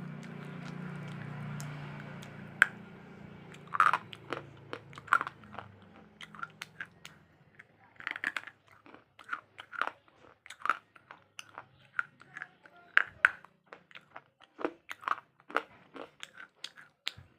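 Crisp crunching bites and chewing of slate close to the microphone, in irregular sharp cracks. A low steady hum sits under the first few seconds and fades out.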